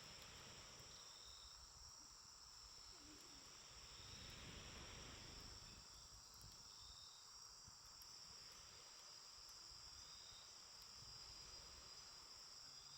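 Faint steady chorus of crickets trilling, with the low hiss of a small campfire and a few faint crackles.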